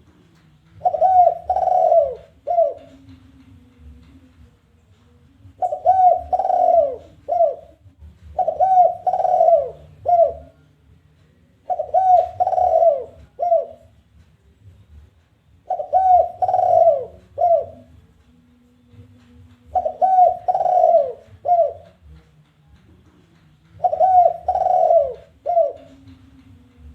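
Spotted dove (tekukur) cooing its challenging call, a phrase of a few low coos with a longer note near the end. The phrase is repeated seven times, about every four seconds. It is the territorial call that is played to lure other doves.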